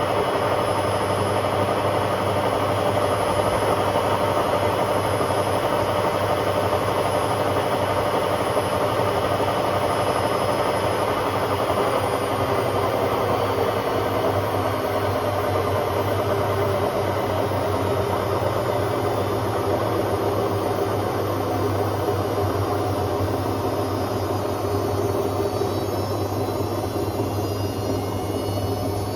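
Hotpoint Aquarius WMA50 washing machine spinning its drum, a loud steady motor whine over a deep hum.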